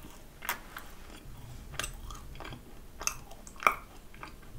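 Close-miked chewing of a thick-filled macaron with mozzarella cheese in its filling: a handful of sharp mouth clicks, the loudest about three and a half seconds in.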